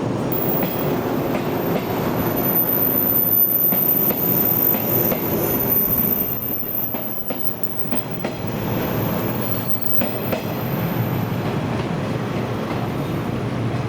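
Electric commuter train running past on the rails, the wheels rumbling and clicking over rail joints, with a thin, steady high-pitched whine over most of it.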